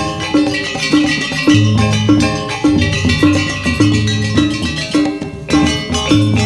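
Gamelan music accompanying a janger dance: metallophones strike a repeating pattern of notes, roughly two a second, over low sustained tones and drums.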